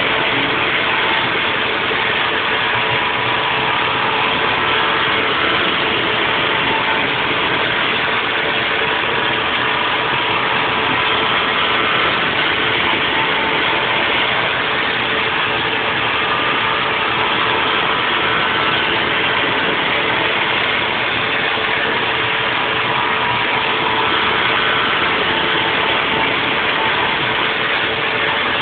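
Haas VF4 CNC vertical mill running a 3D machining toolpath on a nest block: a steady cutting and machine noise with a few faint steady tones, holding an even level throughout.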